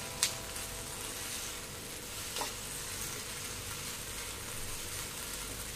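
Okra, onion and garlic sizzling in a nonstick frying pan while a silicone spatula stirs them, with two light clicks.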